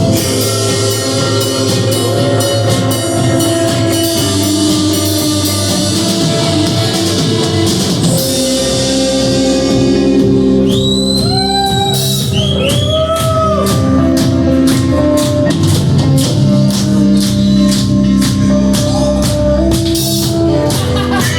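A rock band playing a song with drum kit, guitar and bass. About halfway through, a short sliding melodic phrase comes in, and from then on steady cymbal strokes drive the beat.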